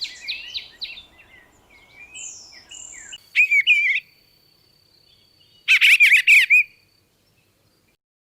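Songbirds singing: a run of quick repeated chirps, then two loud, short warbled phrases about two seconds apart.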